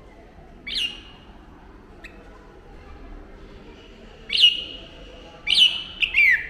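Red-whiskered bulbul giving short, sharp calls, each dropping quickly in pitch: one about a second in, then three more close together near the end, the last two as a quick double.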